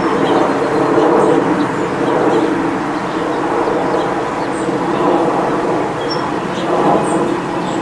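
A steady, loud mechanical drone with several held pitches, like a passing engine or train, with scattered short bird chirps above it.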